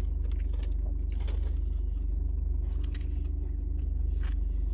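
Steady low hum of a car engine idling, heard from inside the cabin, with a few short scrapes and crackly clicks of food being handled.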